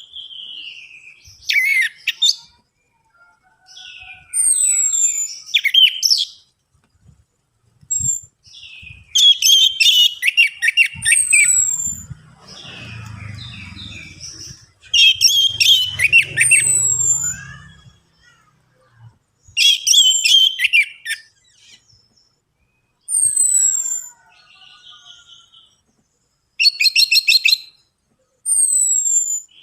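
Orange-headed thrush (anis merah) singing a lure song: loud, varied phrases of sharp falling whistles and fast rattling notes, in bursts of one to two seconds with short pauses between them. A faint low rumble runs under the song midway.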